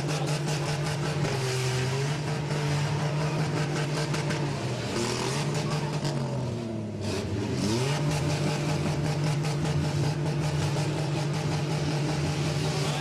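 Demolition derby cars' six-cylinder engines running hard and revving, the pitch dipping and climbing again a couple of times, with scattered knocks of cars striking one another.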